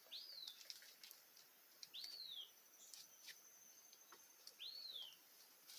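Faint bird calls in the forest: three short whistled notes, each rising and then falling, about two seconds apart. A thin high steady tone runs for about a second in the middle, with a few faint clicks.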